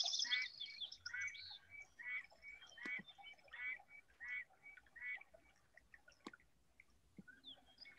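Faint bird chirps, short and repeated about every 0.7 seconds, dying away after about five seconds, with a few soft clicks in between.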